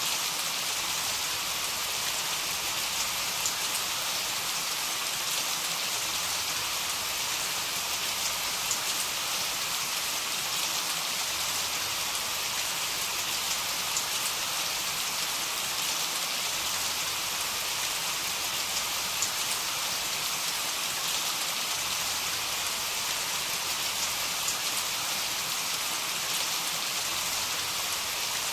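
Heavy rain falling steadily, an even dense hiss with fine patter of drops.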